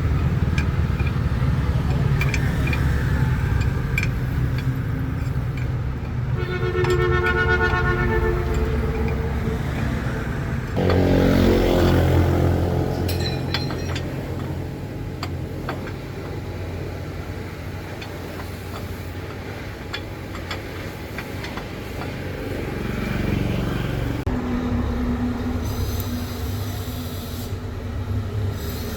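Low steady rumble of a running vehicle engine, swelling louder about 11 seconds in, with a pitched horn-like tone for a couple of seconds about 7 seconds in and another steady tone near the end.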